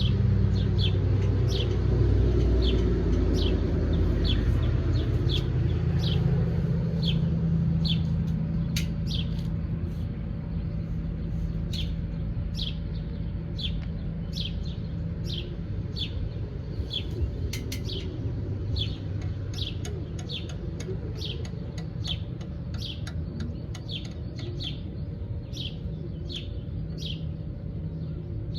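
Birds chirping outdoors, short high chirps repeating about once or twice a second. Under them a low rumble, loudest at the start, fades away over the first ten seconds or so.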